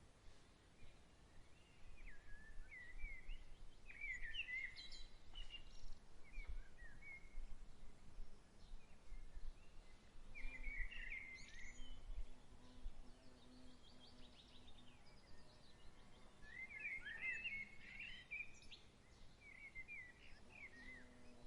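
Songbirds chirping and twittering in three loose bursts of quick, high notes, over a faint steady hiss of outdoor background.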